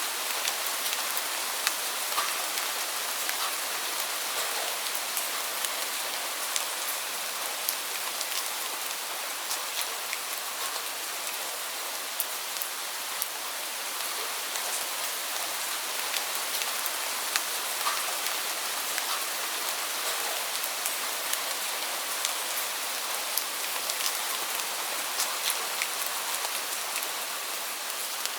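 Steady heavy rain falling on a surface, an even hiss with many close individual drop impacts scattered throughout.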